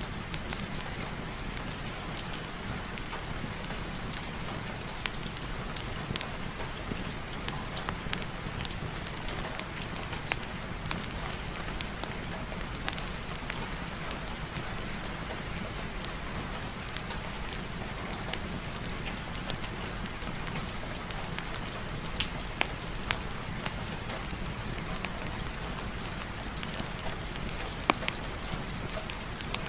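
Heavy, steady rain with a low rumble underneath, dotted with many sharp ticks and crackles, in a fireplace-and-rain ambience mix.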